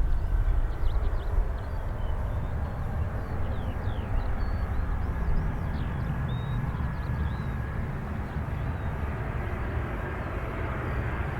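Distant jet aircraft engines running with a steady low rumble and a faint high whine, while small birds chirp over it.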